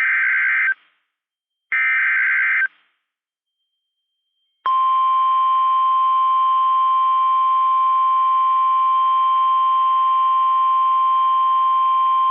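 NOAA Weather Radio emergency alert signal: two short bursts of warbling SAME data tones about two seconds apart, then after a pause the steady single-pitch 1050 Hz warning alarm tone, which announces a warning broadcast.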